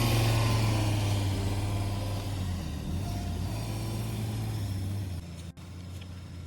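An engine running steadily with a low hum that grows fainter over about five seconds, then cuts off abruptly to a quieter outdoor background.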